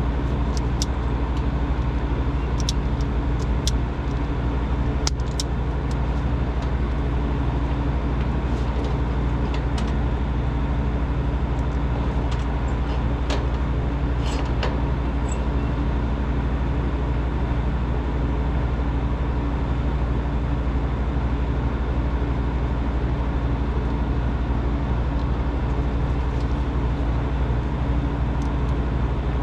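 Machine running with a steady low hum, with a few faint clicks in the first half.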